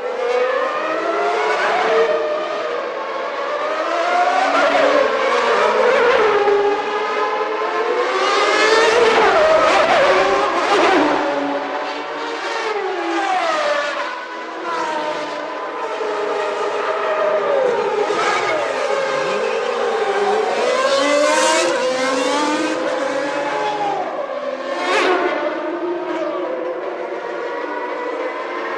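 Several early-1990s Formula One cars' naturally aspirated engines at full race speed, their high-pitched notes rising and falling through upshifts and downshifts as they pass, several engines overlapping at once.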